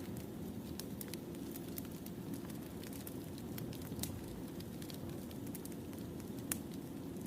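Wood fire burning: a steady low rumble of flames with frequent sharp crackles and one louder pop about six and a half seconds in.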